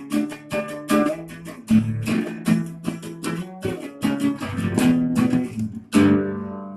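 Guitar strummed in a fast, steady rhythm, ending on a final chord about six seconds in that rings out and fades.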